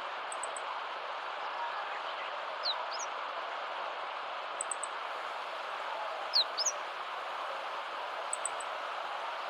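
Small birds calling over a steady rushing background noise: a quick triple tick three times, and twice a pair of short, high downward-sweeping whistles, the second pair the loudest.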